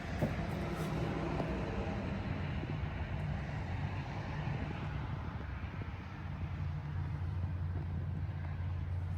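Heavy truck's diesel engine idling with a steady low hum, easing slightly about two-thirds of the way through.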